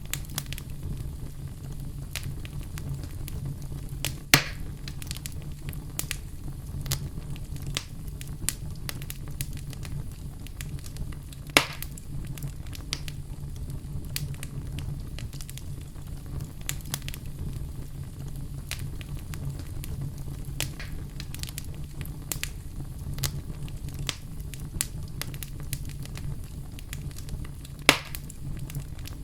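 Campfire crackling steadily over a low, even sound from the flames, with many small crackles and three louder pops: one about 4 seconds in, one near 12 seconds, and one near the end.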